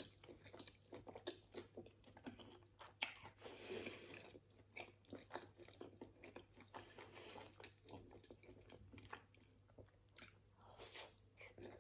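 Quiet, close-miked chewing of a mouthful of pap (maize porridge) and chakalaka: a steady run of small mouth clicks and smacks.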